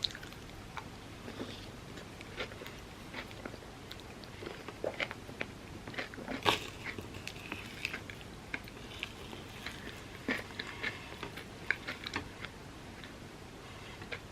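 Close-up eating sounds: biting into and chewing overnight oats topped with set chocolate and pistachio kataifi, with many scattered sharp crunches and clicks, the loudest about six and a half seconds in.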